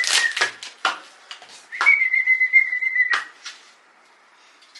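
A high, steady whistle over crackling, hissing noise. It sounds at the start, breaks off about half a second in, and comes back for about a second and a half in the middle, then stops suddenly.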